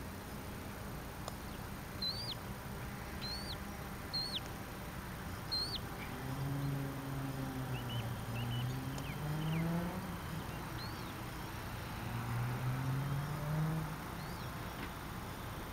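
Small birds chirping in short repeated calls, while a motor vehicle's engine runs in the middle stretch, its pitch rising twice.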